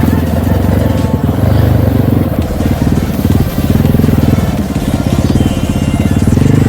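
Dirt bike engine running under load, the throttle opening and easing off so the engine note swells and drops several times.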